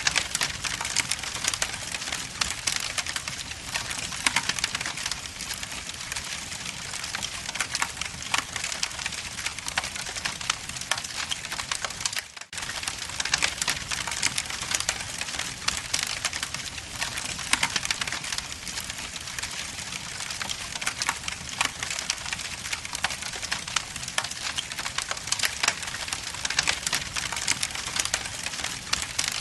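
Wood logs burning in a fireplace, crackling steadily with many small snaps and pops over a soft hiss. The sound briefly drops out about twelve seconds in.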